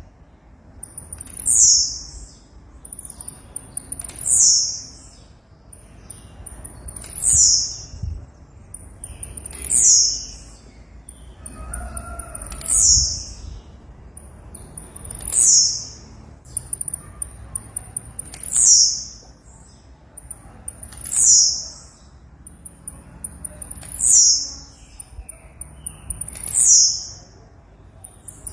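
Blue-black grassquit (tiziu) calling over and over: each phrase is a short, very high buzzy run that ends in a falling sweep, repeated evenly about every two and a half seconds.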